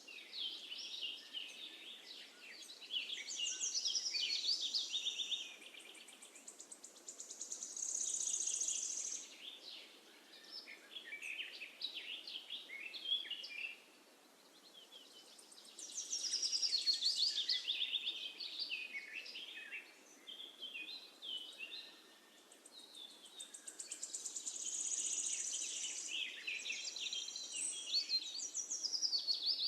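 Songbirds singing: bouts of rapid high chirps and trills a few seconds long, with short lulls between, over a faint steady hiss.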